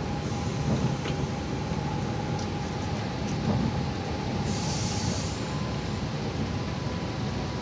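Passenger train running, heard from inside the carriage: a steady low rumble with a faint steady whine. A short hiss comes about halfway through.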